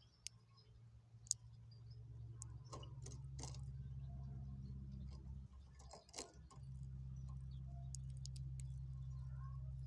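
A steady low hum, starting about two seconds in and dropping out for about a second midway, with scattered light clicks and taps over it, one sharp click near the start.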